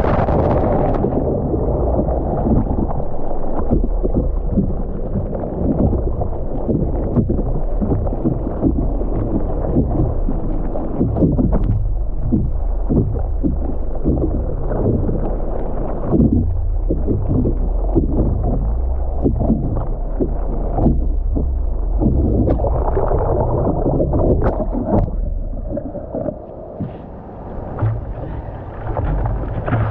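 Sea water splashing and sloshing around a surfer in the water, irregular splashes over a steady rumble of wind buffeting the microphone. It eases for a few seconds near the end.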